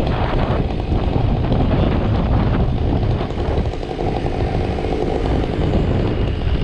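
Chainsaw running steadily, cutting through a fallen tree's trunk to free it from its stump.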